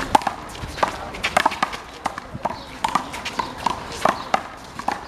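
Rubber handball being struck by hand and smacking off the wall and the court during a rally: a quick, irregular run of sharp smacks, several a second, some with a short ping.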